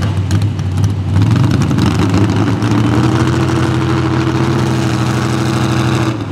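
Mini rod pulling tractor engine at full throttle: the pitch climbs about a second in, then holds steady at high revs under load, and drops off abruptly near the end.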